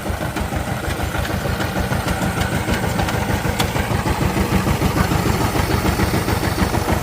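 Diesel engine of a walk-behind power tiller running steadily with a fast, even chugging beat, growing gradually a little louder.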